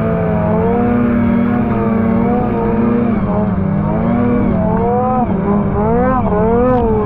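Two-stroke 850-class snowmobile engine running hard, its pitch rising and falling over and over with the throttle, the swings widest near the end.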